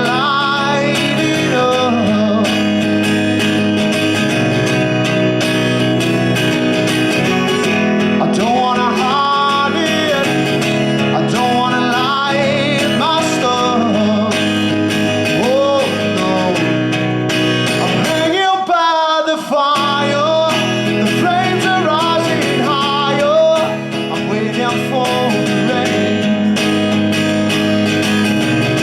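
Live acoustic performance: strummed acoustic guitar under a male singing voice, with a brief break in the guitar's low end about two-thirds of the way through.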